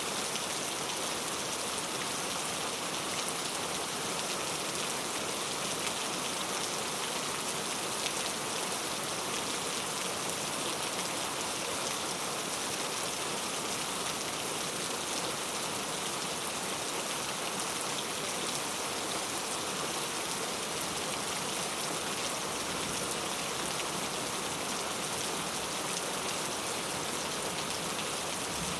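Heavy rain falling steadily, a dense even hiss of drops with fine patter, unchanging throughout.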